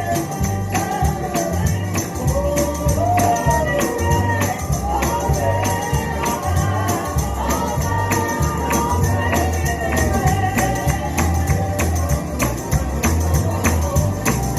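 Gospel song played live, with a tambourine shaken on a steady, quick beat over a pulsing bass line and singing.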